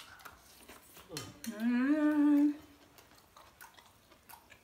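A person hums a held 'mmm' for about a second while eating. Faint clicks of cutlery on plates are heard around it.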